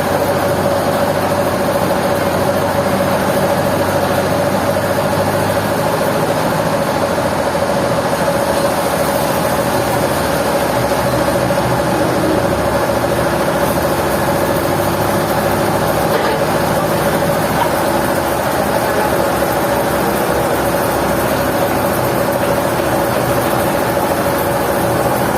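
Sawmill machinery running steadily: a constant mechanical hum with an even wash of noise that does not change.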